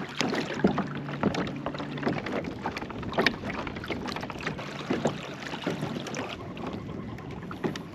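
Water splashing and sloshing around a kayak, with scattered knocks and clicks from gear on the hull. A faint low hum sits under it for the first couple of seconds.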